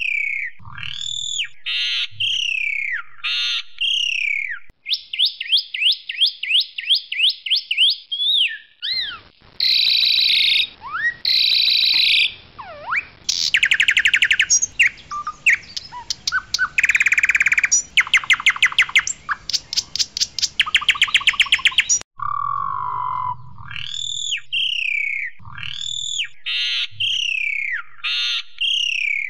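Asian pied starling singing loudly: clear falling whistles and a fast run of repeated notes, then a harsher stretch of rattles and rapid trills, after which the opening whistles come back about 22 seconds in.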